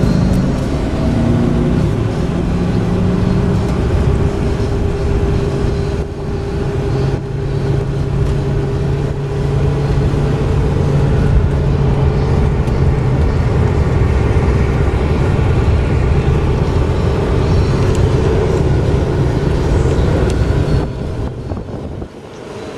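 Chevy Silverado 3500 pickup's gas V8 running steadily as the truck drives in four-wheel drive, heard from inside the cab. The engine drone eases off about two seconds before the end.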